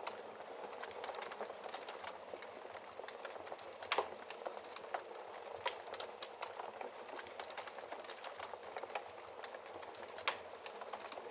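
Fire burning in a fireplace, crackling with many small snaps over a soft hiss. One louder pop comes about four seconds in and another near the end.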